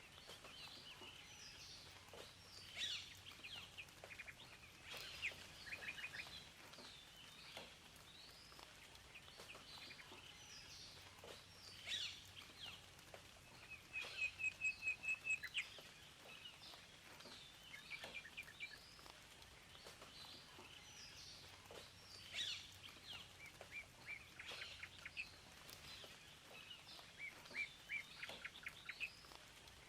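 Several songbirds chirping and calling over a faint steady hiss. There are many short notes and sweeps, and about halfway through comes a quick run of about eight repeated notes, the loudest call.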